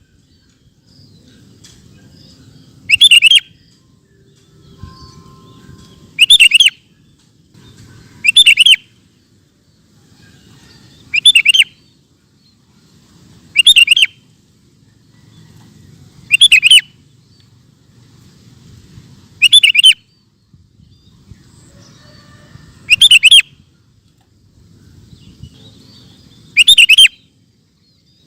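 Sooty-headed bulbul singing vigorously: nine short, loud, bubbling song phrases, one every three seconds or so. A faint low rumble fills the gaps between phrases.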